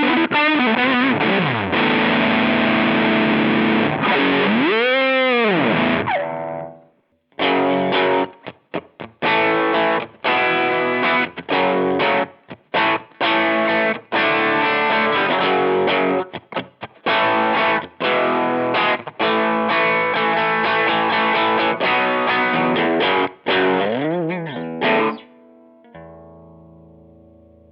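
Electric guitar through a Rowin LEF-606 fuzz pedal, heavily distorted. Notes swoop up and back down, then choppy stop-start chords with short gaps follow, and near the end it fades on a quieter held tone.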